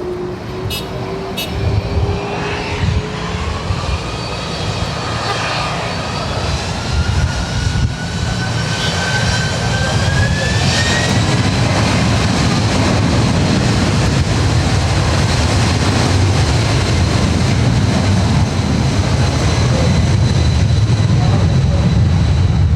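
Jet airliner engines spooling up: a whine rising steadily in pitch for about ten seconds, then holding steady while the low engine rumble grows louder.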